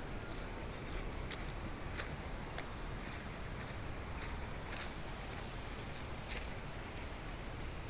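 Irregular short crunches and rustles over a steady outdoor hiss, the loudest a little before five seconds in.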